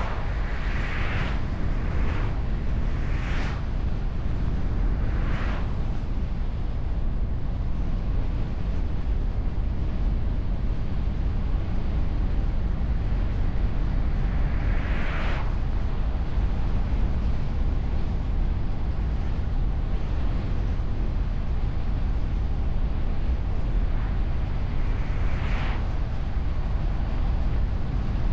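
Car driving on the road, heard from a camera on the bonnet: a steady low rumble of road and wind noise, with brief hissing whooshes several times in the first few seconds and again about halfway and near the end.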